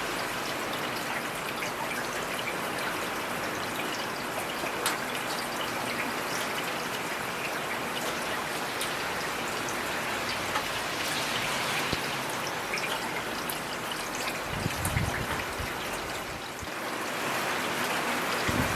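Heavy rain falling steadily, a dense hiss with many individual drops pattering and dripping. About fifteen seconds in there is a brief low rumble.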